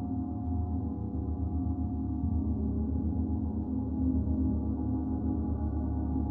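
Gong played continuously as a sound bath: a sustained, shimmering wash of many overlapping tones with a pulsing low hum, swelling slightly about four seconds in.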